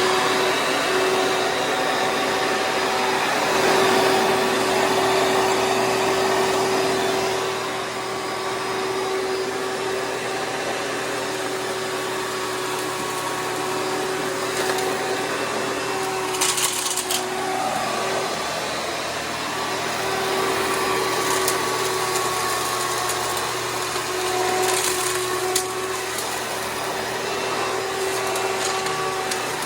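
Hoover Preferred direct-air upright vacuum running steadily, a motor hum with steady whining tones over a rush of air. A couple of brief rattles come through, about sixteen and twenty-five seconds in.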